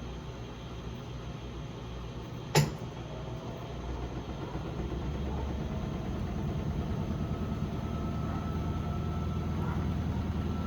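Electrolux LPE16 washing machine running with a low hum. A single sharp click comes about two and a half seconds in, after which the hum grows steadily louder and a faint whine slowly rises in pitch.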